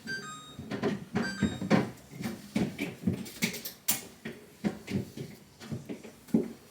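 Damp towel wiping the inside of a fridge in repeated rubbing strokes, about two or three a second, with a sharp click about four seconds in.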